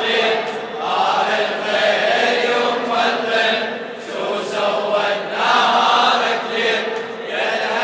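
Men's voices chanting a Shia latmiya lament together, in long phrases that swell and fall.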